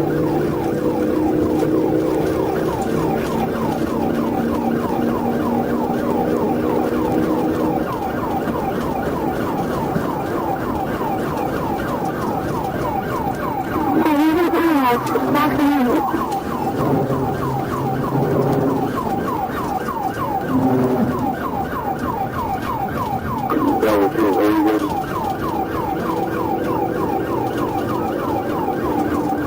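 Police car siren in a fast yelp, its pitch sweeping up and down over and over, over the vehicle's running and road noise. Two louder, noisier stretches break in, one about halfway through and one near the end.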